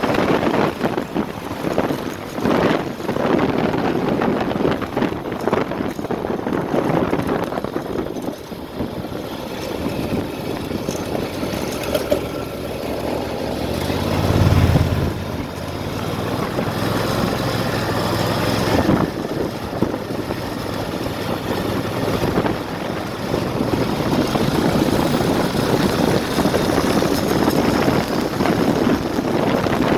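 Turbocharged Honda GX620 V-twin go kart engine running, its level rising and falling with the throttle. About halfway through it gets louder and deeper for a couple of seconds.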